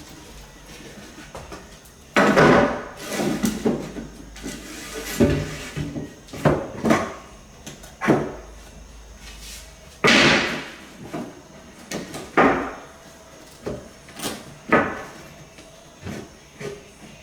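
Irregular wooden knocks and thumps of hardwood flooring boards being handled and knocked into place, about a dozen, the loudest about two seconds in and about ten seconds in.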